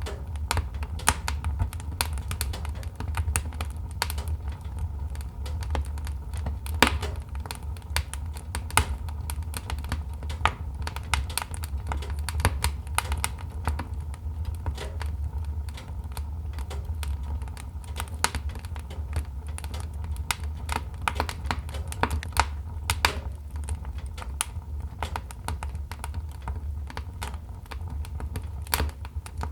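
Wood fire crackling: irregular sharp pops and snaps, many a second, over a steady low hum.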